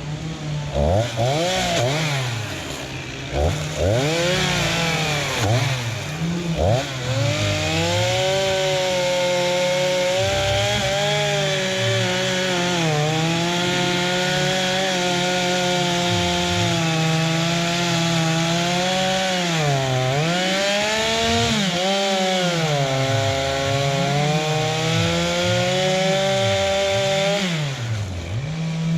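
Two-stroke chainsaw blipped up and down a few times, then held at full throttle through a long cut into wood, its pitch sagging a little under load. It drops back near the end.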